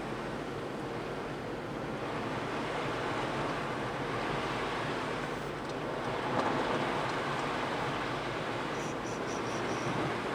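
Steady rushing road and tyre noise inside a moving car, swelling slightly about six seconds in.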